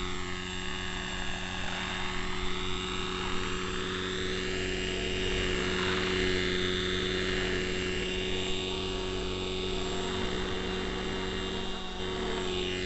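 Neo Caliber 50 RC helicopter in flight: its carburetted model engine and rotors run at a steady pitch. A whooshing sweep rises and falls over it as the helicopter moves about.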